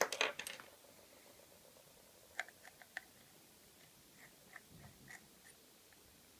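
A quick flurry of sharp clicks and rattles, then scattered light ticks and taps: small repair tools and parts being handled on an iPhone 5.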